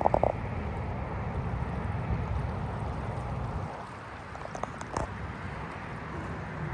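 Steady rush of the flooding Yakima River, with a low rumble underneath that drops away a little past halfway.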